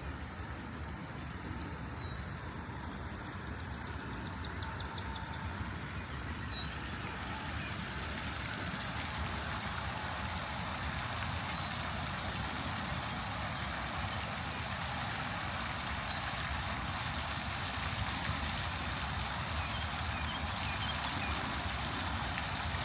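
Outdoor ambience: a steady wash of noise that grows a little louder, with a few faint short chirps from birds.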